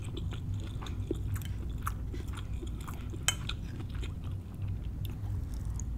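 A person chewing a mouthful of crab fried rice with mouth closed, with scattered soft mouth clicks. One sharp tap of a metal fork against a ceramic plate comes a little past halfway. A low steady hum runs underneath.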